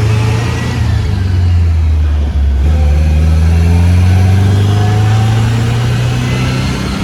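1965 MGB's 1.8-litre four-cylinder engine and freshly finished exhaust under acceleration, heard from inside the car. The engine note rises in pitch, breaks briefly about two and a half seconds in, then climbs again.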